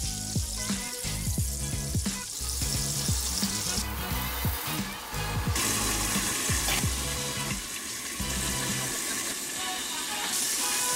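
Venison steaks sizzling in hot oil in a pan, under background music with a steady beat.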